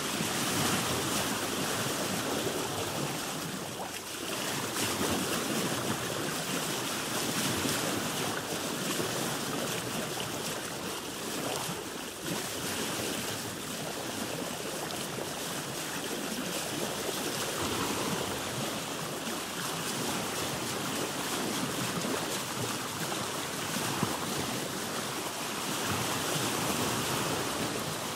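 Ocean waves heard from aboard a boat: a steady rush of sea water that slowly swells and ebbs, dipping briefly about four and twelve seconds in.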